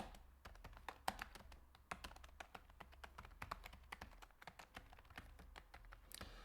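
Computer keyboard typing: a fast, irregular run of faint keystrokes as code is typed.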